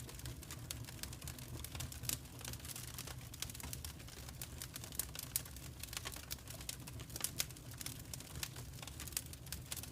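Fire in a fireplace crackling: irregular sharp snaps and pops, a few louder than the rest, over a low steady rumble.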